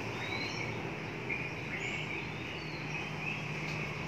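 Background ambience: several short, faint bird chirps over a low steady hum.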